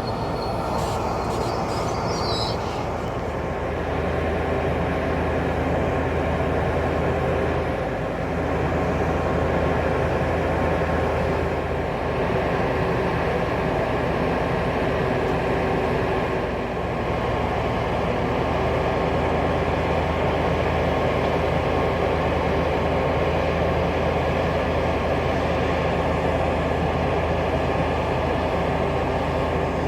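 Siemens Charger diesel-electric locomotive running steadily with its train, a constant engine drone with several held tones over a rumble. A brief high squeal sounds about two seconds in.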